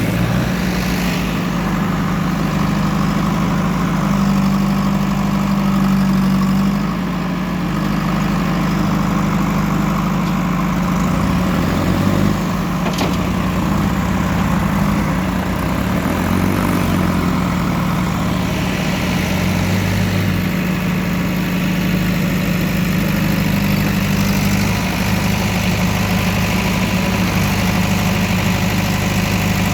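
Heavy machinery diesel engine running steadily, its low note shifting slightly now and then, with a single brief click about 13 seconds in.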